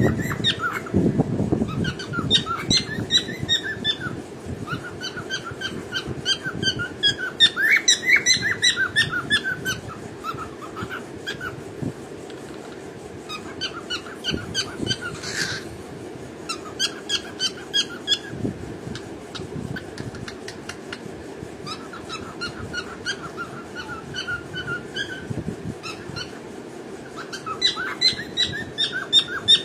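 Pet cockatiel singing: runs of quick, high chirping notes in several bursts, with short pauses between them.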